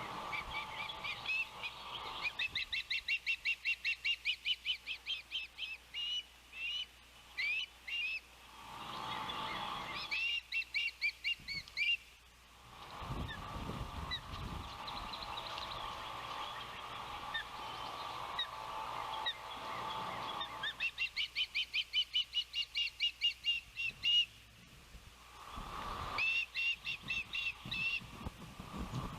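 Ospreys calling in four bouts of rapid, high chirps, several notes a second, with a low rumble of wind on the microphone between the bouts.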